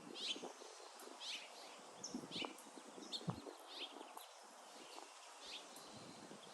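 A small songbird chirping repeatedly, short high chirps about once a second, over faint rustling and handling noise.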